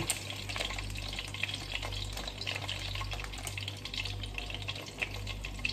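Frozen food frying in oil in a pan over a low flame, a steady sizzle dotted with small crackles. Along with it come light clicks of metal tongs and the crinkle of a plastic food bag.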